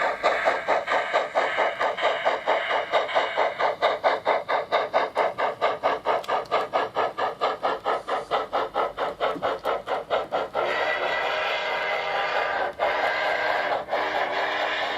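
Digital steam sound from the loudspeaker of a Trix Big Boy model locomotive, played by its ESU LokSound decoder: an even, rapid chuffing of about five beats a second. About ten seconds in, the chuffing gives way to a steady hiss.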